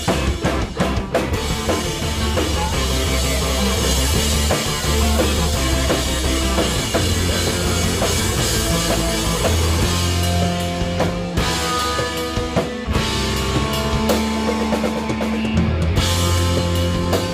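Rock band playing live, with a drum kit and held bass notes and guitar, breaking off briefly twice in the second half.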